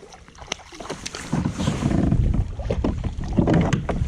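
Water splashing and sloshing with scattered knocks and clicks, getting louder about a second in, as a hooked bass thrashes beside a plastic fishing kayak while it is handled.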